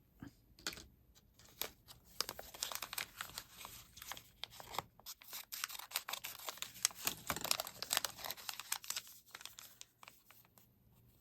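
Thin plastic wrapping being torn and peeled off a miniature toy package, crinkling, with small irregular crackles and clicks that are busiest in the middle and die away near the end.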